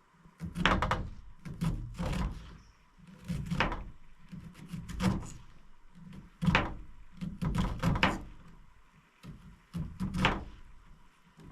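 A series of about eight irregular knocks and clunks, like objects being handled and set down on a hard surface.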